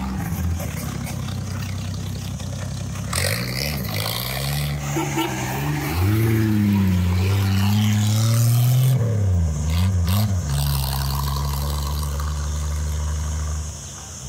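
1954 Vauxhall Velox's six-cylinder engine pulling away and driving off, its note rising and falling several times as it gets going. The sound drops away near the end as the car moves off.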